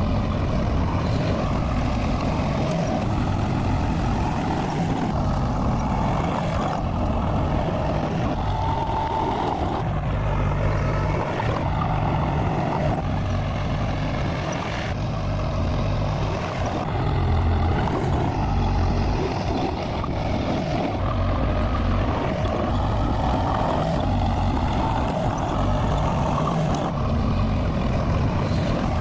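Bulldozer's diesel engine running steadily with a continuous low rumble.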